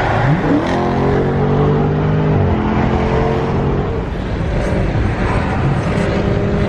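V8 muscle car accelerating hard. The engine pitch climbs over the first half second and holds high until a shift about two and a half seconds in, then pulls again to about four seconds before easing into steady running with road noise.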